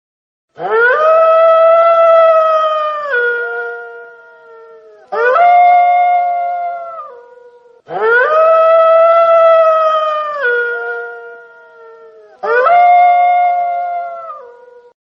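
Wolf howling: four long howls in a row. Each one rises at the start, holds a steady pitch, then drops to a lower note and fades.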